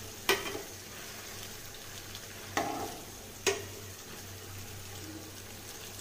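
Spiral-cut potatoes on skewers deep-frying in hot oil with a steady sizzle while they are turned over in the pan. Three short clicks of the spoon and tongs knocking against the pan: one soon after the start and two close together in the middle.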